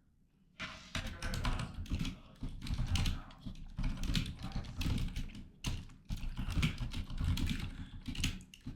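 Rapid typing on a computer keyboard, a dense run of key clicks with short pauses, starting about half a second in.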